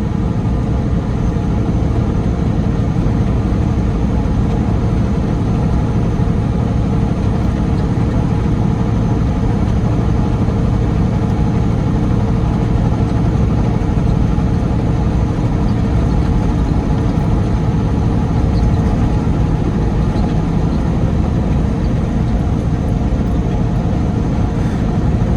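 Semi truck's diesel engine running steadily, heard from inside the cab as an even low drone that holds unchanged throughout.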